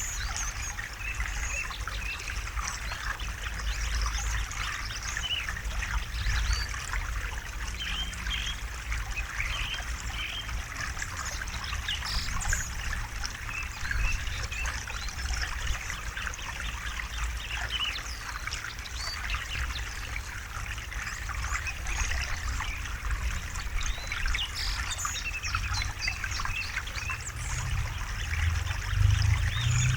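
River water trickling and babbling over stones, a steady dense splashing with a low rumble beneath it.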